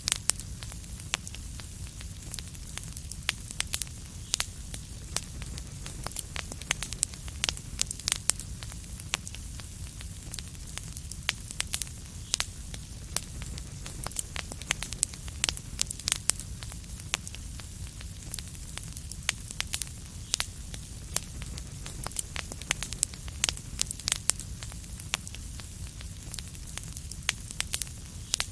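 Wood fire in a fireplace crackling: many sharp, irregular pops and snaps over a steady low rumble and hiss.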